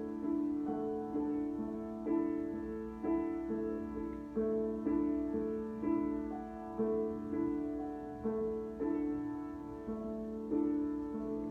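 Solo piano improvisation: slow, gentle notes in the middle register, a new note struck about every half second, each ringing and fading.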